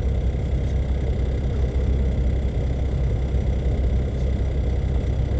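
Steady low hum with no change in level, a constant background drone.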